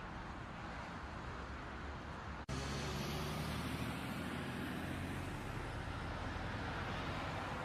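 Steady low hum of a moving car's engine and road noise. About two and a half seconds in the sound switches abruptly to a slightly louder, deeper engine drone that then holds steady.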